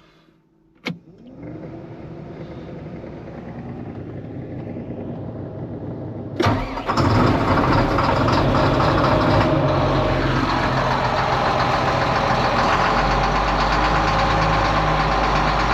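Farm tractor diesel engine being started on a cold morning: a click about a second in, a sound that builds over the next few seconds, then a sudden jump about six seconds in to the engine running steadily and loudly.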